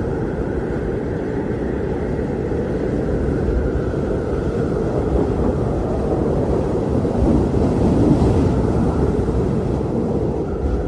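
Blizzard wind blowing in a steady, low rumble, swelling briefly about eight seconds in.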